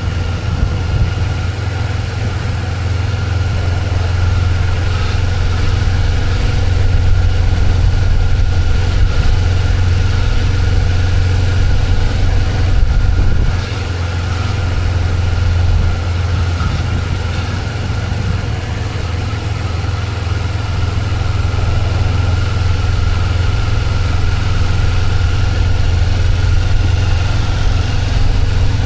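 Motorcycle engine running steadily under way, a strong low drone with rushing noise over it. The level drops suddenly about halfway through, then builds again.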